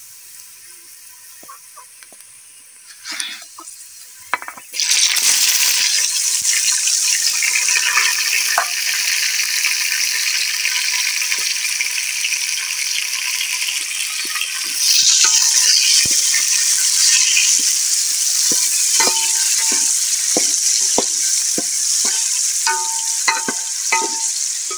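Chopped tomatoes hitting hot oil in a cooking pot, sizzling loudly from about five seconds in, with the sizzle surging again partway through. Near the end a wooden spoon knocks against the pot as the tomatoes are stirred.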